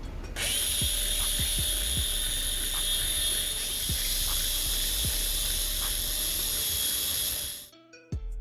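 A high-speed handheld power tool spins up about half a second in, runs with a steady high-pitched whine for about seven seconds, then cuts off suddenly. Background music with a steady beat plays underneath.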